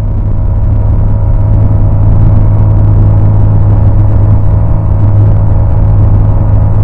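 Light aircraft's piston engine and propeller running steadily, a loud low drone with a constant pitch, heard from inside the cockpit.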